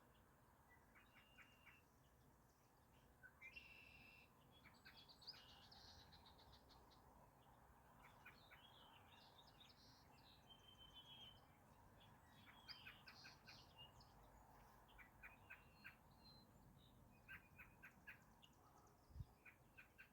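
Faint birdsong from several birds: short chirps and quick repeated trills coming every second or two, over a soft steady outdoor hiss. A single soft low thump sounds near the end.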